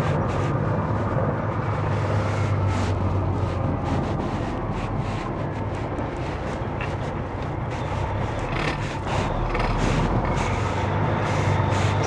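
Semi truck's diesel engine running steadily at low speed, heard from inside the cab, with scattered light clicks and rattles.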